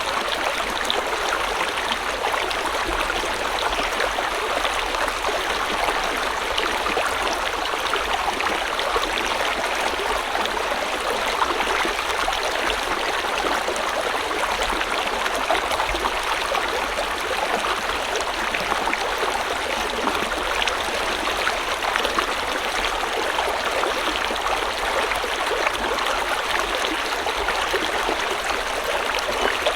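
A river or stream flowing steadily over rocks, a continuous rushing and babbling with small splashes throughout.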